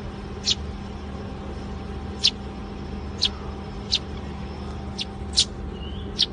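A small animal's short, high chirps or squeaks, about nine of them at irregular intervals of half a second to a second, over a steady background hum.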